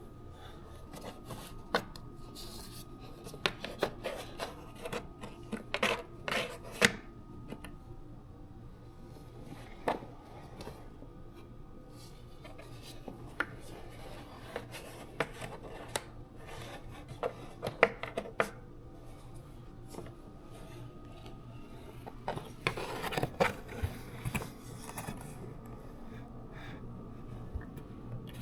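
Irregular scraping, rubbing and clicking of small objects being handled, in bursts with quiet gaps between.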